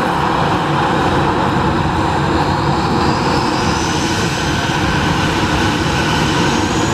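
Jet airliner engine noise: a loud, steady rush with a whine that slowly rises in pitch from about halfway through.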